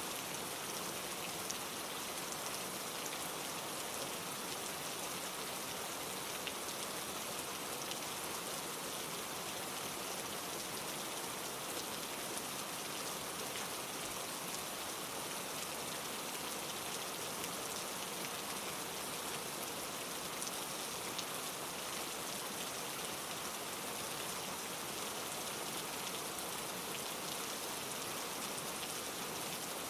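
Steady rain, an even hiss with a fine patter of individual drops.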